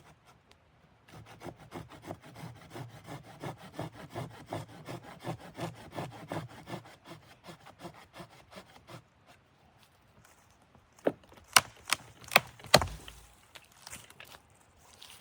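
Wood being worked by hand: a fast run of rasping strokes, about five a second, for several seconds, then five sharp knocks in quick succession.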